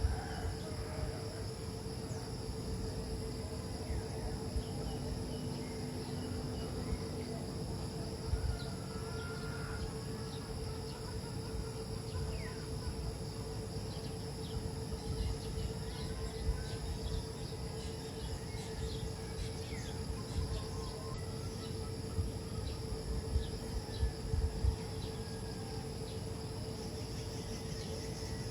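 Steady chirring of crickets and other insects over a constant low hum and a low rumble, with a few brief faint chirps.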